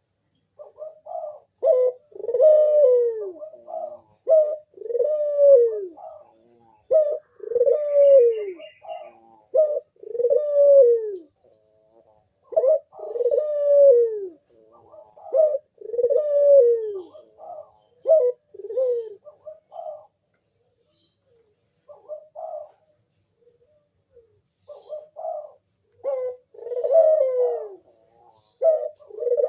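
Barbary dove (burung puter) cooing in its manggung display call: a run of repeated coos, each with a falling tail. It stops for a few seconds about two-thirds of the way through, then starts again.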